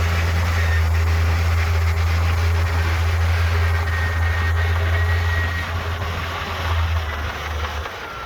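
Heavy construction machine's diesel engine running steadily with a deep hum, easing off somewhat near the end.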